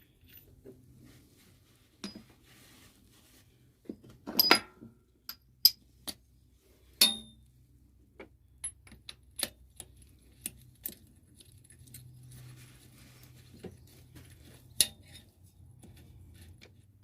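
Small metal parts and hand tools clinking and knocking against each other and a workbench, in irregular single clicks with a busier clatter a few seconds in, while new oil seals are fitted to an oil filter union. A faint steady low hum runs underneath.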